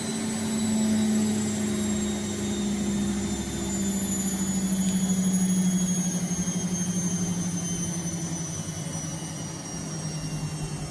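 Vestel CM8710 washing machine in its final spin: the drum motor runs with a steady hum and a high whine, both slowly falling in pitch, with a fast throbbing in loudness.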